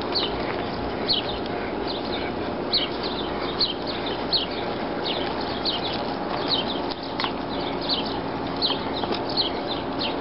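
A bird chirping over and over, short falling chirps about one or two a second, over a steady background hum.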